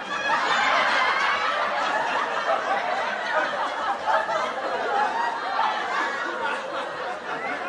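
Canned laugh track: many people laughing together at a punchline. It is loudest at the start and eases off toward the end.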